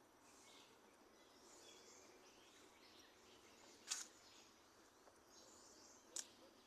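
Faint chirps and short song phrases from small birds. Two sharp clicks, about four seconds in and again about two seconds later, stand out as the loudest sounds.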